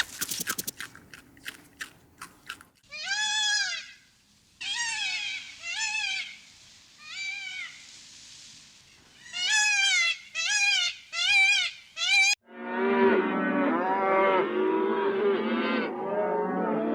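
Farm animals calling: a few sharp clicks, then a string of high calls, each rising and falling, about a second apart. About two-thirds of the way in, a dense chorus of many animals calling over one another sets in abruptly.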